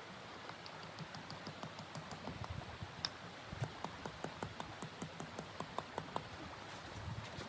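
Wood fire crackling: irregular sharp pops and clicks, several a second, over a steady hiss.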